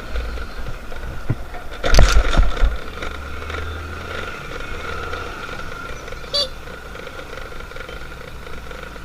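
Motorcycle running under way, with a steady whine and a deep rumble that drops off about three seconds in. A couple of loud knocks come around two seconds in, and a short high chirp about six seconds in.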